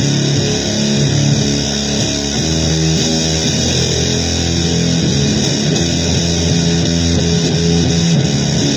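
Loud, dense guitar-based noise-blues music, with held low notes changing every second or so.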